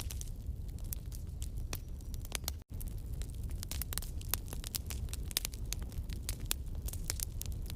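Campfire burning, with wood popping and crackling in quick irregular snaps over a steady low rumble. The sound cuts out for an instant about a third of the way in.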